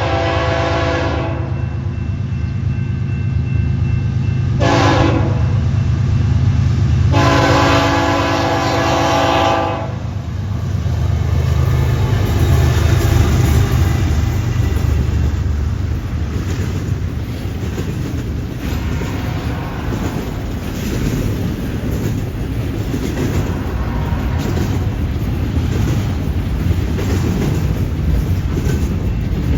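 A CN diesel-hauled freight train passing close by: the lead locomotive's air horn sounds a blast at the start, a short toot about five seconds in and a longer blast from about seven to ten seconds, over the deep rumble of the diesel engines. After the horn the cars roll past with a steady rattle and regular wheel clicks over the rail joints.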